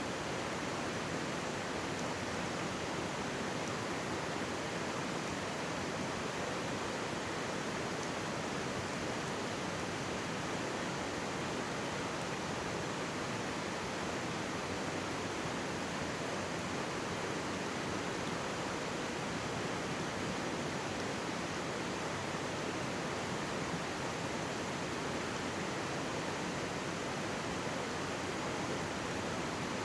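Mountain stream rushing steadily close by, a constant even wash of water sound.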